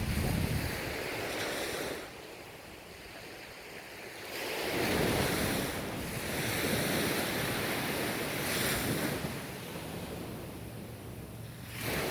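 Ocean waves breaking and washing up a shore in slow surges, one after another, with a lull of a couple of seconds after the first, and some wind on the microphone.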